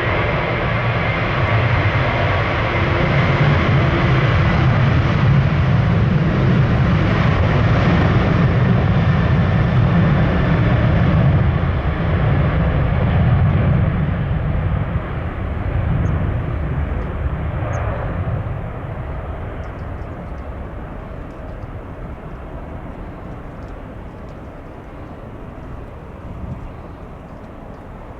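Jet airliner's engines at takeoff power on the departure roll: a loud, even rush with a faint steady whine in it, rising to a peak in the first half and then fading steadily as the aircraft moves away.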